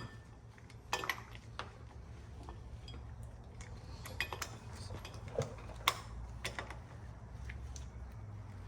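Scattered metallic clicks and clinks of a hand tool working on the 289 V8's crankshaft as the engine is turned over by hand with the spark plugs out, over a steady low hum. The engine turns freely: it is not seized.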